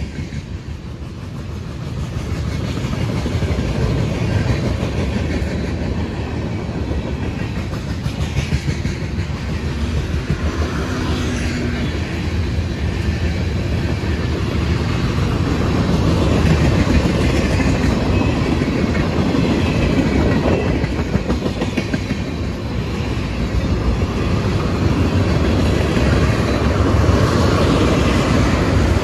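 Freight cars of a long mixed manifest train rolling past close by: a steady loud rumble of steel wheels on rail with a rhythmic clickety-clack.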